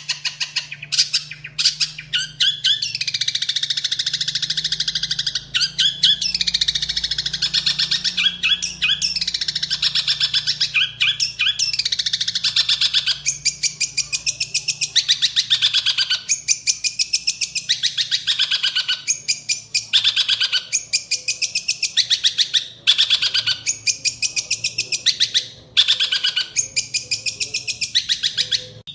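Long-tailed shrike (cendet) singing a fast, harsh chattering song packed with mimicked calls, including sparrow-like chirps. It runs unbroken at first, then in phrases a couple of seconds long separated by brief pauses. A faint low hum sits underneath.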